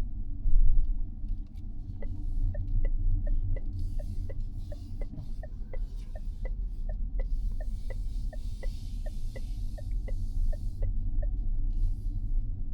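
Low road and tyre rumble inside the cabin of a Mazda 6e electric car on the move. From about two seconds in until near the end, the turn-signal indicator ticks steadily, about three ticks a second.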